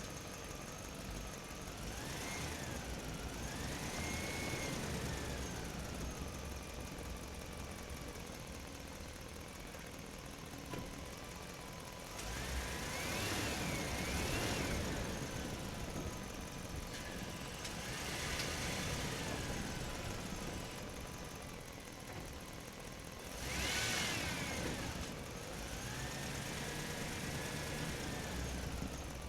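Motor sounds that swell and ease off several times, with a whine that rises and falls in pitch in each swell. The loudest swell comes about two thirds of the way through.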